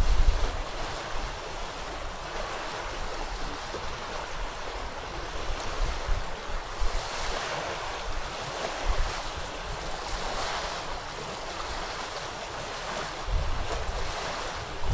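A stormy river rushing steadily, with wind gusting against the microphone at the start and again near the end.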